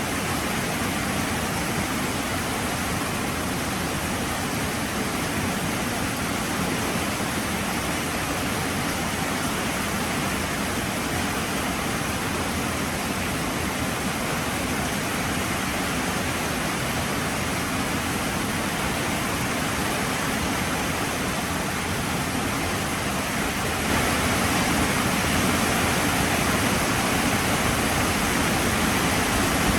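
Heavy rain pouring steadily, a dense even hiss that turns a little louder and brighter about 24 seconds in.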